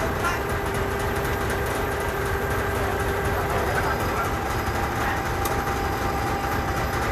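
Forklift's engine running steadily under a low rumble, with a thin steady tone that fades about halfway through.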